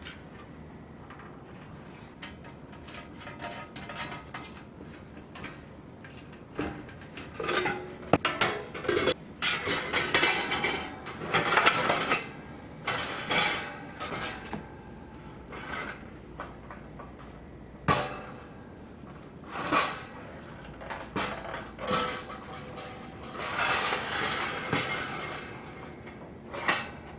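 Metal pieces clanking and scraping together in irregular bursts, busiest in the middle, with a few single knocks toward the end.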